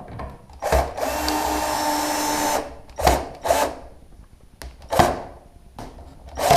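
Power drill-driver driving a hinge screw into wood: one steady run of about a second and a half, then a few short sharp bursts.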